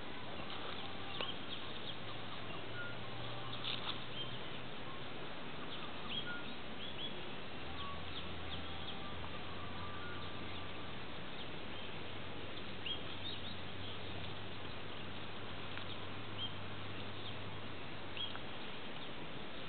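Forest ambience: scattered short, high bird chirps over a steady background hiss.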